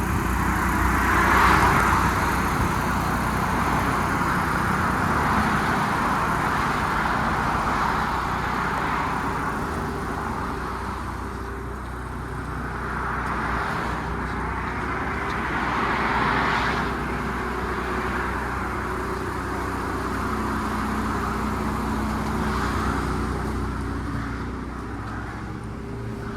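Motor-vehicle noise: a steady low engine hum, with a rushing sound that swells and fades several times, like vehicles passing.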